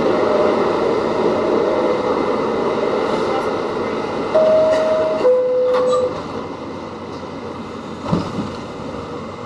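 New York City subway train noise, then the two-note descending door chime about four seconds in, a higher tone followed by a lower one. The noise then drops off sharply as the doors close, leaving a quieter hum with a brief knock near the end.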